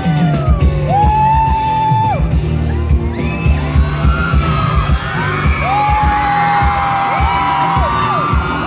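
Live pop music played loud over a concert PA: a singer holds long sung notes with sliding pitch over a heavy, steady kick-drum beat. Whoops from the crowd rise over it.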